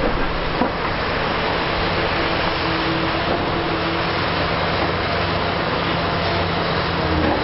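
Diesel engine of a Liebherr R 960 high-reach demolition excavator running steadily, with a constant wash of machine noise.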